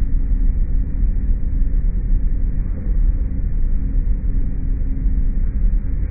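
Steady low machine drone with a few faint held tones, played slowed down, so it sounds deep and dull. The uploader takes the source for a compressor-type machine.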